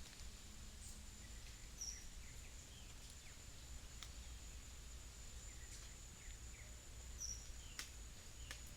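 Faint natural ambience: a steady high-pitched insect buzz throughout, with scattered short bird chirps and a few sharp ticks over a low rumble.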